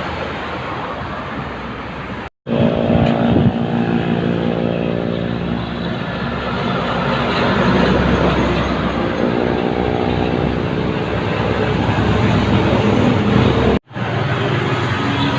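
Heavy diesel truck engine running loud on the road, its note falling and then rising again as it works. The sound drops out abruptly twice at video cuts.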